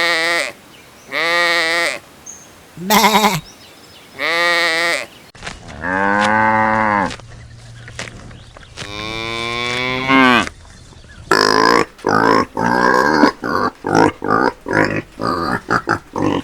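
A run of farm animal calls: four short bleats, then two long cow moos, then rapid pig grunting from about eleven seconds in.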